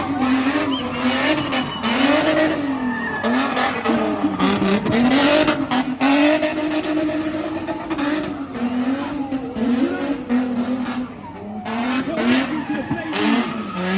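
Spinning car's engine held at high revs, its pitch swinging up and down over and over as the car spins, with tyres screeching and skidding on the pad.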